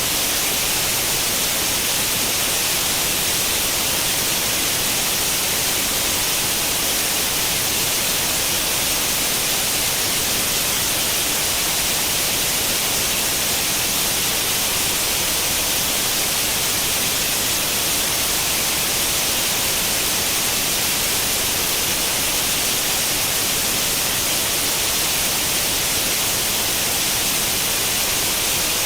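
Steady white-noise static like an old tube television tuned to no channel: an even, unbroken hiss, brightest in the high end.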